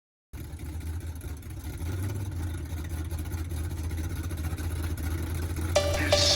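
A steady, low mechanical hum that grows slowly louder, with a beat of music coming in near the end.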